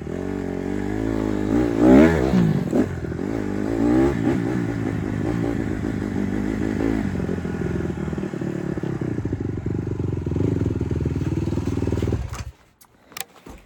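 Honda CRF150R dirt bike's single-cylinder four-stroke engine running under riding, revving up and back down twice in the first few seconds, then holding a steady pitch until it cuts off abruptly near the end.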